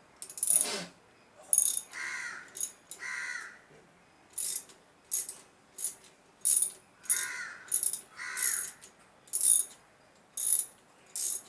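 Crows cawing several times, mixed with short, sharp metallic clicks and rasps from hand tools working on small-engine parts, about one every second.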